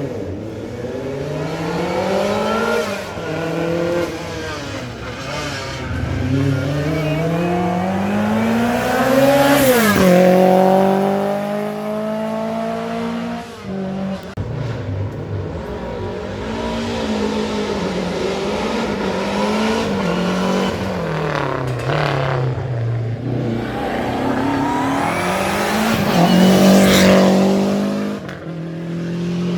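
Rally car engines revving hard with repeated rises and drops in pitch as they change gear and come off the throttle. Two loud close passes come about a third of the way in and again near the end, each with the pitch falling away as the car goes by.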